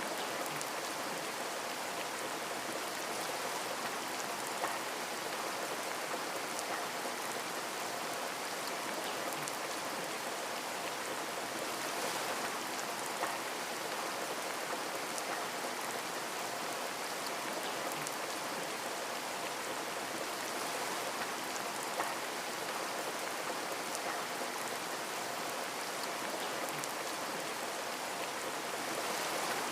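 Steady rain pattering on a window, an even hiss of drops with occasional louder individual drips.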